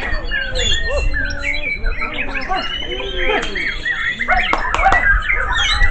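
Several white-rumped shamas (murai batu) singing at once: a dense, overlapping tangle of rising and falling whistles, chirps and rapid phrases over a low rumble.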